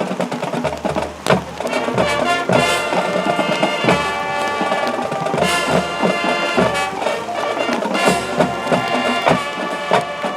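High school marching band playing: brass carrying the tune over drum hits, coming in sharply at the start.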